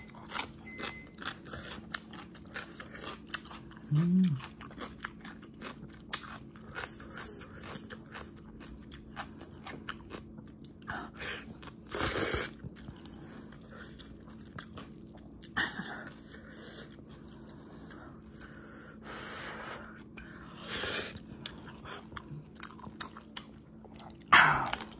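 Close-up eating sounds: wet chewing and crunching of pickled yellow radish (danmuji) and spicy jjajang instant noodles. There is a loud slurp of noodles about halfway through and a loud crunchy bite into a slice of radish near the end.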